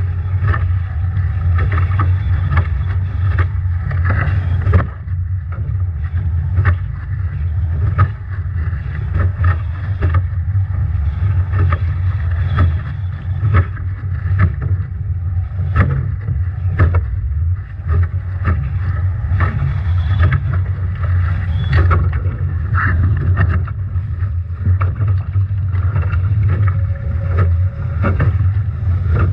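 Strong wind buffeting the onboard microphone with a heavy, steady low rumble. Over it, water rushes past the hull of a Nacra 17 foiling catamaran in rough seas, with frequent sharp slaps of waves and spray against the boat.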